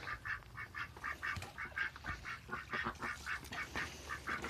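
Ducks quacking: a steady run of short, quiet calls, about four a second.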